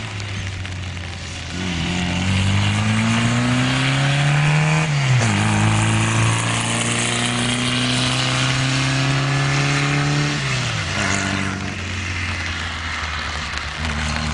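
Abarth 750 GT Zagato's small 747 cc four-cylinder engine accelerating hard: its pitch climbs through one gear, drops at an upshift about five seconds in, and climbs again through the next gear. Near eleven seconds the revs fall away and it settles to a lower steady note.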